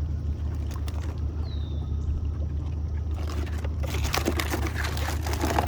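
Boat motor running steadily at low speed, with water splashing and trickling that becomes louder and busier about three seconds in.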